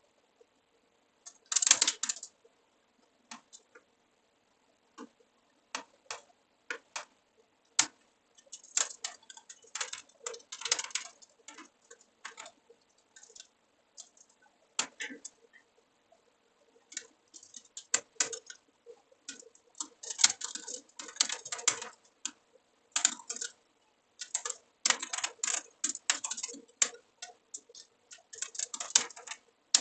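Typing on a computer keyboard: quick runs of keystrokes lasting a second or two, broken by pauses and single key clicks.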